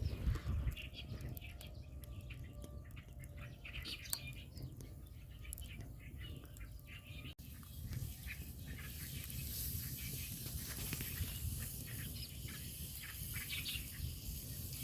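Birds chirping, with short calls scattered through. After a cut about seven seconds in, a steady sizzle of minced meat frying with onions in a pan joins the birdsong.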